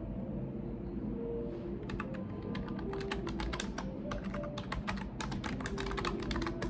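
Computer keyboard typing in quick runs of keystrokes, starting about two seconds in, over a steady low background hum.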